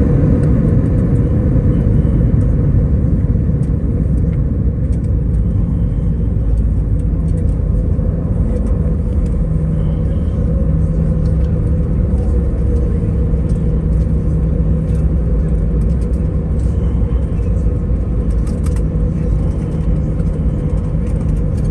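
Airbus A320 cabin noise on the ground after landing: a steady engine and landing-gear rumble with an even hum as the aircraft rolls along, easing a little over the first few seconds.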